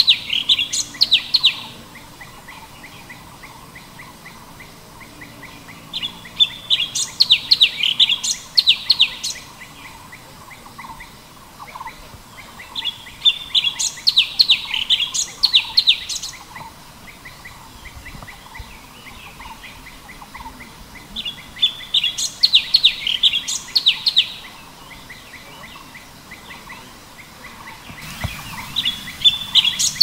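Cucak cungkok bird singing: a rapid, chattering phrase of high notes lasting two to three seconds, repeated every six to eight seconds, with soft, faint chirps in between.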